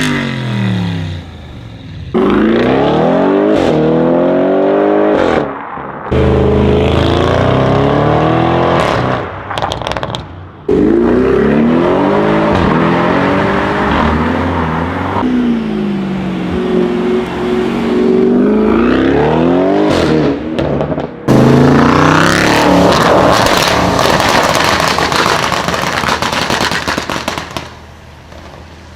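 Audi RS6 engine revving and accelerating hard in a run of short clips, its pitch sweeping up and down, with abrupt cuts between clips. A burst of sharp exhaust crackles comes about nine to ten seconds in.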